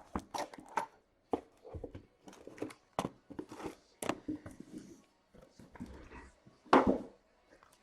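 Hands handling cardboard boxes of trading cards: irregular clicks, rustles and knocks, with one loud thump near the end.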